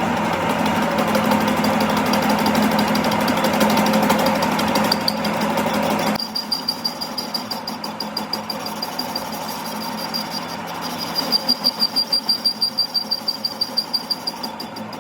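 A machine running steadily and loudly, which changes abruptly about six seconds in to a lighter, rapid regular pulsing with a thin high whine over it.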